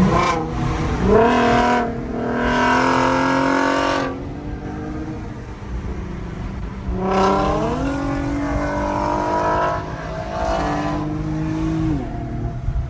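Infiniti G37's 3.7-litre VQ V6 with a muffler delete (straight pipe), accelerating hard twice: each time the exhaust note rises in pitch, breaks briefly at a gear change, carries on and then falls away as the throttle lifts, about 4 seconds in and again near the end.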